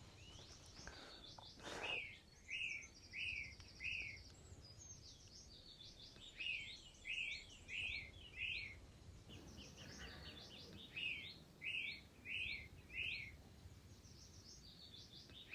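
A songbird singing faintly, with phrases of four or five short, quickly repeated notes coming every few seconds and a brief buzzy trill about three seconds in.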